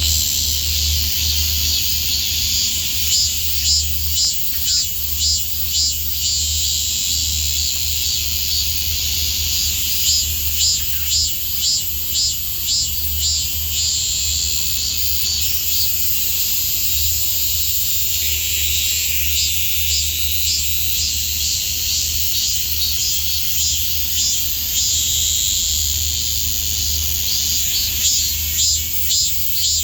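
Several cicadas singing at once from one tree: a continuous high-pitched drone, overlaid at times by phrases that pulse about twice a second.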